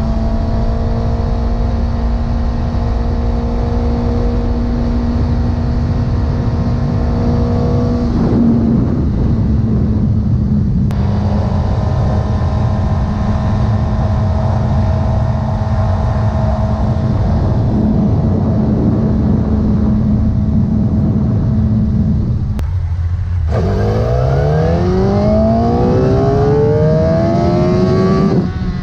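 Suzuki GSX-R1000 K7's inline-four engine through its stock exhaust, running at a steady pitch while riding for most of the time. A few seconds before the end it dips briefly, then revs up in a long rising pull as the bike accelerates.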